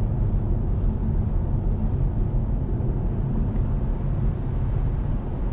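Steady road and tyre rumble of a Tesla Model 3 Performance, an electric car, driving at highway speed.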